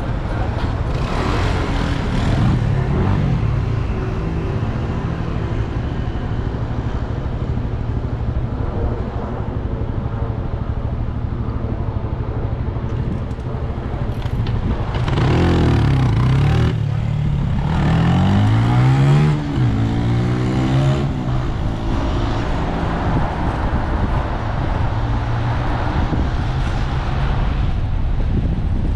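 City traffic heard from a moving bicycle over steady wind and road rumble. About fifteen seconds in a motor vehicle passes close, its engine note rising twice in pitch as it accelerates.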